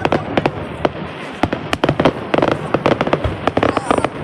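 Fireworks going off in a rapid, irregular string of sharp bangs and pops, about twenty in four seconds.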